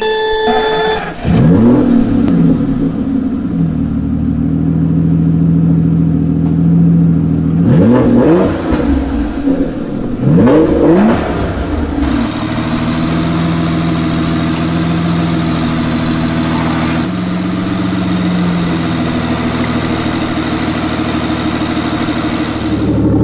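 Car engine idling and revving, with three quick throttle blips where the pitch rises sharply and falls back in the first half, then running more steadily.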